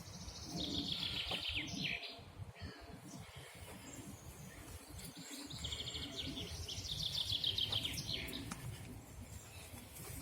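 A songbird singing two quick phrases of rapid high notes that slide slightly downward, one starting about half a second in and the other about six seconds in.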